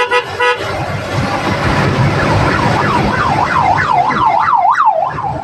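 A vehicle horn tooting in a quick run of short blasts, then a siren warbling up and down with the sweeps getting faster until it cuts off near the end, over steady engine and road noise heard from inside a moving vehicle.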